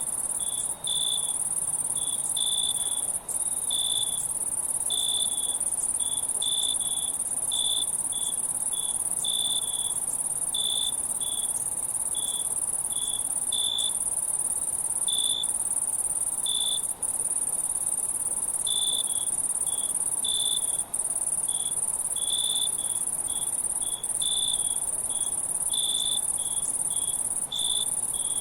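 Insects trilling: a continuous high-pitched drone, with a second, lower insect chirping in short, irregularly spaced pulses. The drone breaks off for an instant a few times.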